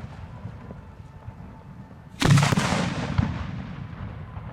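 Fireworks going off: one loud boom about two seconds in, fading slowly with a rumble and a couple of smaller cracks. The tail of an earlier boom is dying away at the start.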